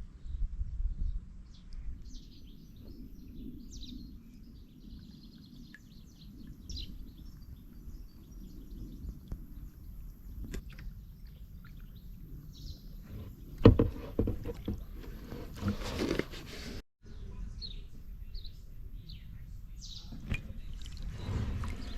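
Sea kayak on open water: a low steady rumble with scattered short bird calls, and a louder stretch of water splashing from paddle strokes past the middle that stops abruptly.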